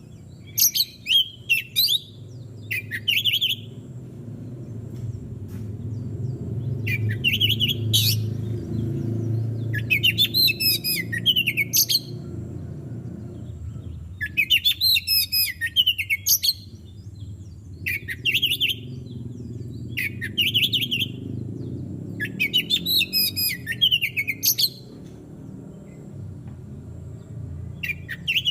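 Oriental magpie-robin singing: loud, varied whistled phrases of one to two seconds, repeated every couple of seconds, over a steady low rumble.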